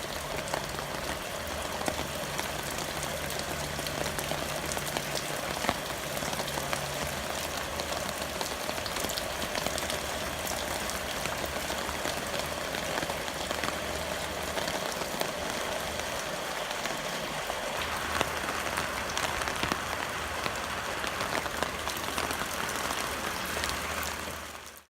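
Steady heavy rain, an even hiss dotted with many small drop impacts; it fades out just before the end.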